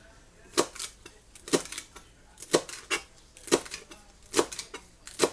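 Knife chopping onion on a cutting board: sharp knocks of the blade, in close pairs about once a second.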